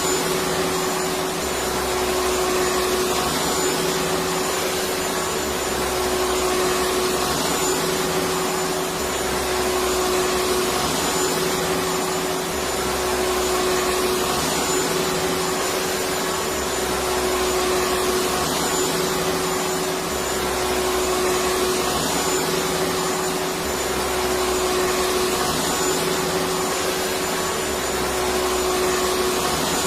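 Vacuum cleaner motor running continuously, a steady whirring hum over rushing air, with a low throb that comes back every few seconds.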